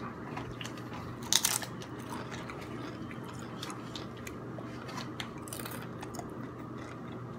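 A person eating: chewing and crunching food, with scattered small clicks and two louder crisp crunches, about a second in and at around five and a half seconds.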